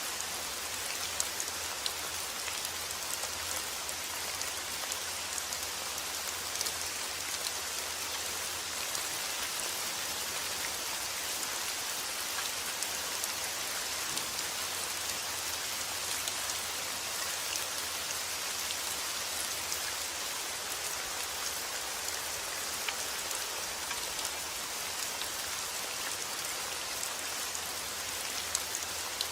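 Steady rain falling, a dense even patter with frequent sharp drops. A faint low hum sits under it.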